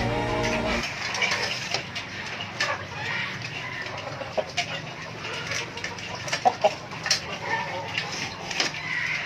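Village chickens clucking, with short calls and scattered sharp ticks. Background music cuts off about a second in.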